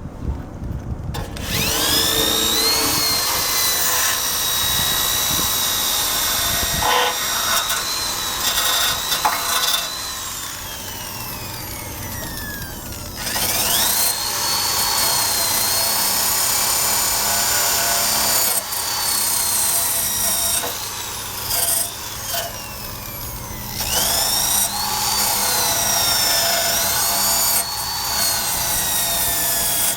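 Electric drill with a wire brush attachment, scrubbing rust off steel. It is run three times, each run starting with a whine that rises as it spins up, over a harsh rasp. The first run winds down with a long falling whine about ten seconds in.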